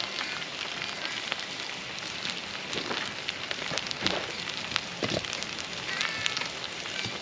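Campfire crackling, with a steady hiss and scattered sharp pops, and a few short high chirps about six seconds in.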